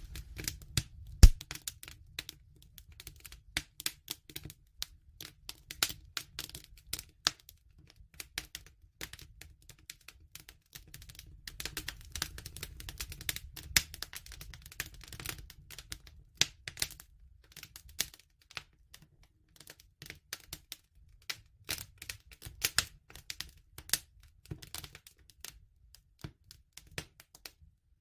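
Campfire burning: wood crackling and popping in quick, irregular clicks over a low, steady rumble of flame, with one loud pop about a second in.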